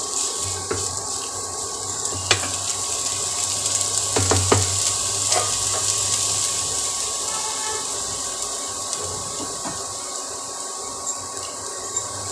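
Shredded cabbage, carrot, onion and green chilli sizzling steadily in hot oil in a kadai, with a few light knocks of the spatula against the pan in the first half.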